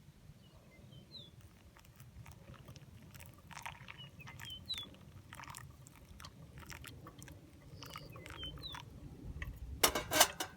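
Small birds chirping in short, high, upward calls, among irregular crunching clicks, with a louder, denser burst of crunching near the end.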